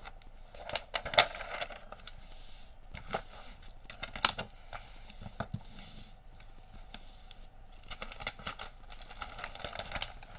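Packaging of a diamond-painting kit being handled: irregular crackling and rustling with scattered clicks and taps, quieter for a while in the middle.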